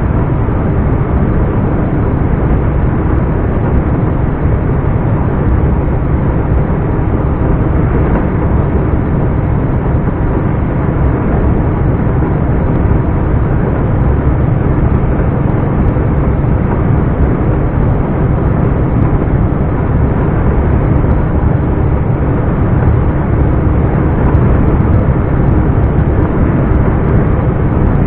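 Scania R420 truck's six-cylinder diesel engine running steadily under way with turbo, at an even pitch, getting slightly louder in the last few seconds.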